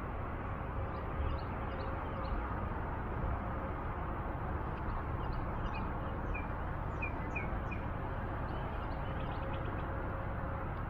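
Small birds chirping in short, scattered notes, more of them in the middle of the stretch, over a steady low outdoor rumble.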